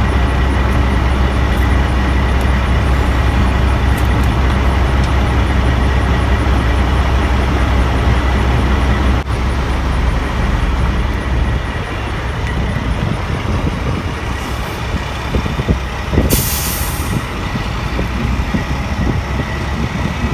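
Road traffic going by: a heavy, steady low rumble of a passing vehicle that eases off about eleven seconds in. A short sharp hiss follows about sixteen seconds in.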